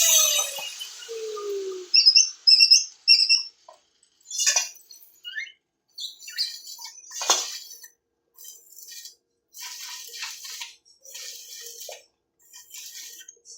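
Short high bird chirps, followed by a series of brief scratchy noises at irregular intervals.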